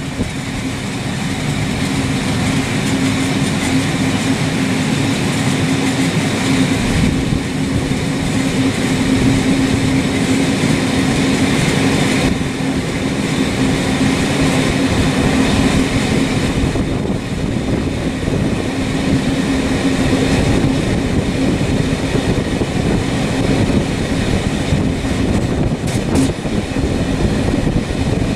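A vehicle running steadily, with a constant low hum over a continuous rumble, growing louder over the first few seconds and then holding level.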